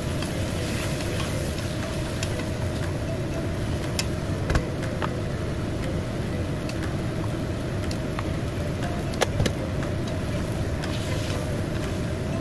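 Sponge gourd pieces sizzling in oil in a frying pan, over a steady low rumble. A few sharp clicks and taps come from a spoon and a wooden spatula against the pan.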